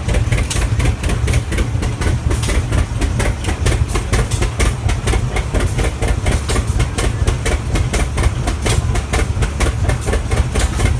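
Large antique steel-wheeled gasoline tractor engine running steadily, with a quick, even beat of exhaust pulses, about five or six a second.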